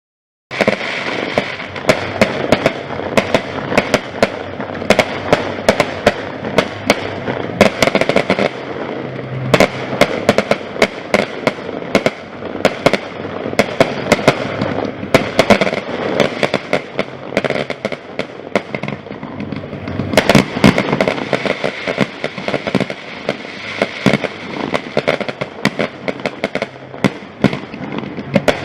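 Fireworks display going off continuously: a rapid, irregular barrage of sharp bangs and crackles over a dense rumbling background, starting suddenly about half a second in.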